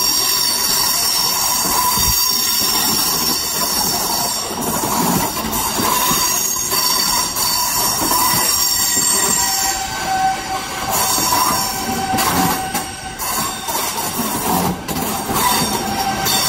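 Eurostar high-speed train rolling slowly past along a platform, its wheels squealing in steady high-pitched tones over the rumble of the cars. A lower squeal tone joins about ten seconds in.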